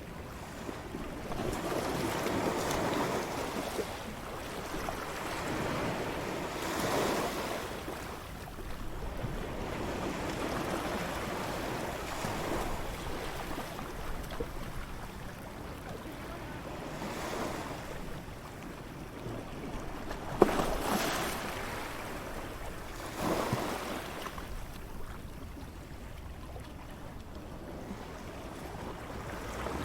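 Waves breaking and washing up a beach, the surf rising and falling in swells every few seconds. A sharp click stands out about two-thirds of the way through, with a smaller one a few seconds later.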